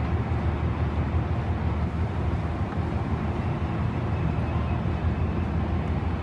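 Passenger train coaches rolling away along the track, their wheels on the rails making a steady low rumble.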